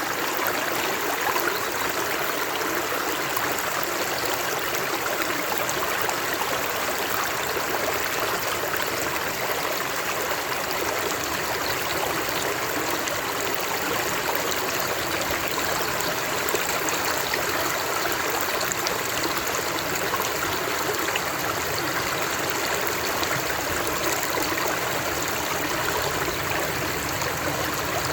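Water running steadily, an even, unbroken rush.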